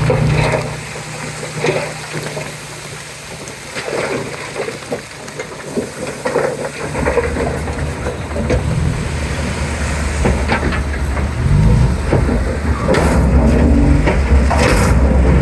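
Komatsu D31P bulldozer working, its diesel engine running under the clanking and scraping of tracks and blade. The engine drops back in the first few seconds, picks up again about seven seconds in, and revs briefly a little later.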